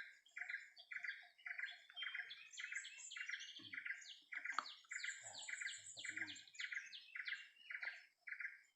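Forest birds calling: one repeats a short note about three times a second while others chirp higher over it. A few brief soft low sounds come in between.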